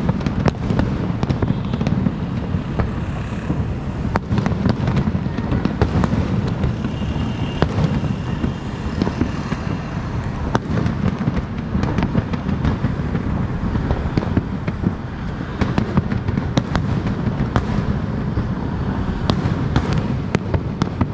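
Aerial shell fireworks bursting in quick succession: many sharp bangs and cracks throughout, over a steady low rumble.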